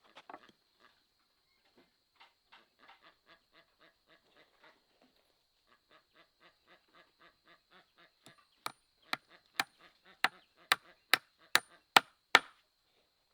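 Ducks quacking in a long quick run of short calls, then about ten loud, sharp chopping strikes at roughly two a second, like a blade biting into wood.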